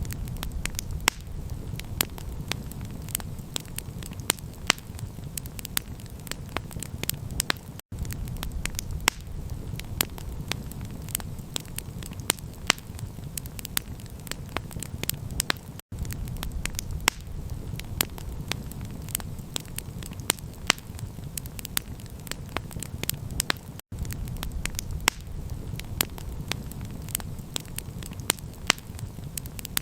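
Campfire crackling: frequent sharp pops and snaps over a steady low rumble. The sound drops out for an instant about every eight seconds, the seam of a repeating loop.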